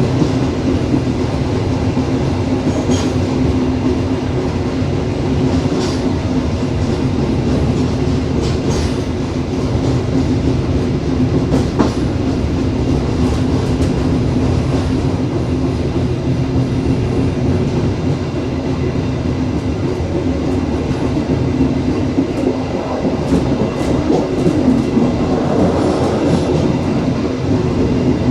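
Dharmawangsa passenger train running along the track: a steady rumble with a constant hum, and occasional sharp clicks and knocks from the wheels and carriage.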